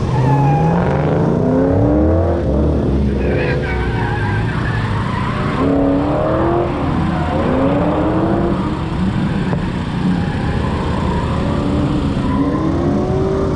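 Drift cars on track, their engines revving up and down in repeated rising and falling sweeps as they are driven sideways, over a steady hiss of tyre skidding.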